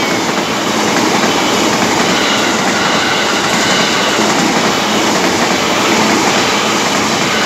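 KRL commuter electric multiple-unit train running past close by, a loud, steady noise of its wheels on the rails.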